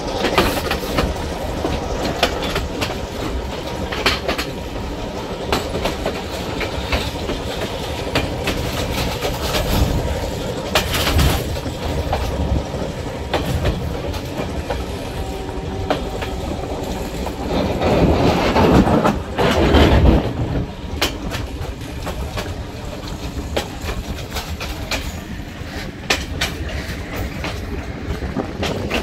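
Passenger train running on the track, heard from aboard a carriage: a steady rumble with irregular wheel clicks over the rail joints. The noise swells louder twice, around ten seconds and again around eighteen to twenty seconds in.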